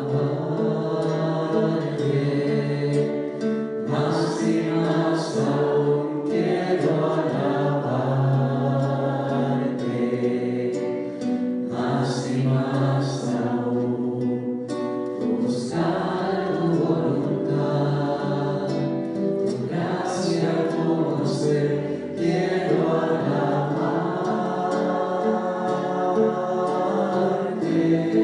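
Christian worship music with choir-like singing over a sustained accompaniment, without clear words.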